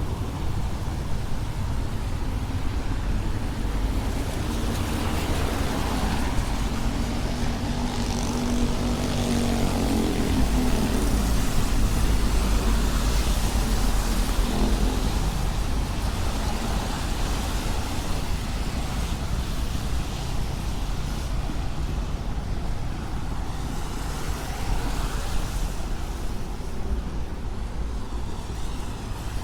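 Traffic on a wet city street: a steady rumble and tyre hiss, with a heavy vehicle passing loudest about halfway through, adding a low hum.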